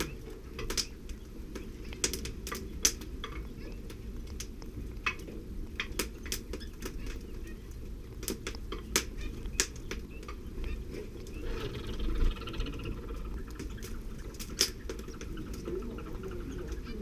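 Irregular sharp clicks and taps of a canary hen and her chicks moving about in the nest close to the microphone, over a low steady rumble, with a brief faint chittering about eleven seconds in.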